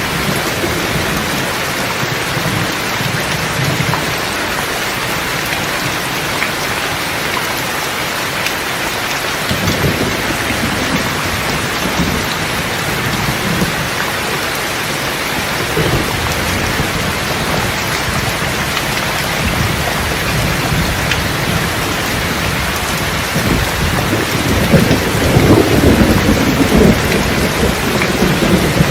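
Steady heavy rain falling, with low rolls of thunder at times and a louder, longer roll of thunder in the last few seconds.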